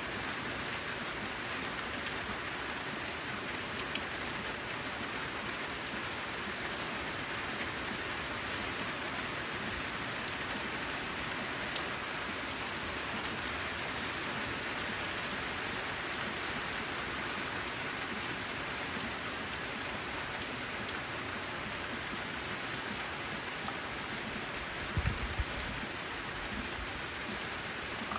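Steady rain pattering on a corrugated metal (zinc) roof, with many fine drop ticks. A brief low thump near the end.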